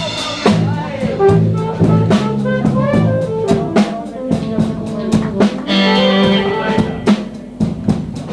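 Live blues band playing: a drum kit keeps a steady beat under a bass line, with a melodic lead line on top.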